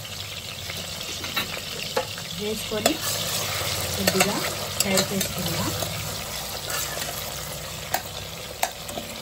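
Tomato pieces and whole spices sizzling in hot oil in a steel pressure cooker while a ladle stirs them, clicking and scraping against the pot now and then.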